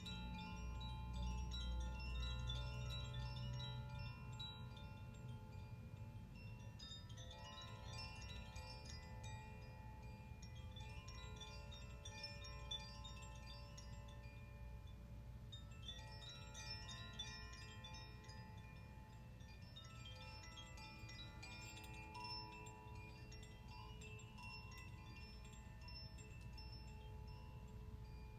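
Chimes played by hand in a sound-healing session, tinkling in clusters every few seconds, their tones ringing on and overlapping. Under them is a low hum that is stronger in the first few seconds and then eases.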